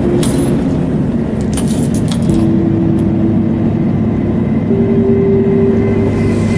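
Scania 144L 530 truck's V8 diesel engine running steadily on the road, with a few short rattles about two seconds in.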